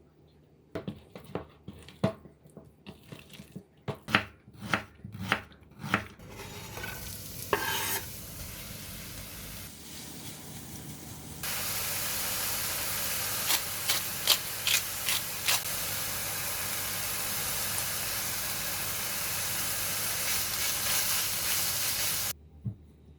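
A series of sharp taps and knocks, then a loud, steady sizzle of belyashi (meat-filled dough pies) frying in vegetable oil in a skillet, with a few sharp crackles. The sizzle cuts off suddenly near the end.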